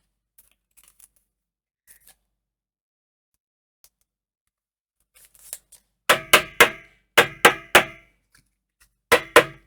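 Quiet handling, then from about six seconds in a run of sharp clicks, each with a brief ringing tone: about six in two seconds, then two more near the end. They come from trading cards and plastic card sleeves being handled while holo Pokémon cards are sleeved.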